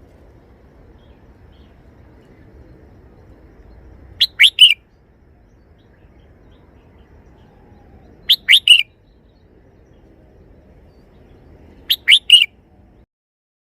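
Red-whiskered bulbul singing its three-note song phrase three times, about four seconds apart.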